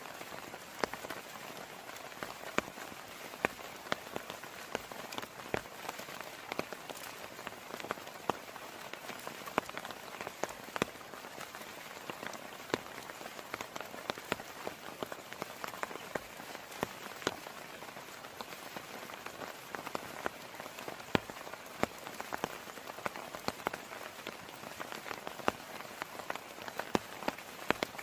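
Heavy rain pouring steadily, with many sharp drops striking hard and close throughout.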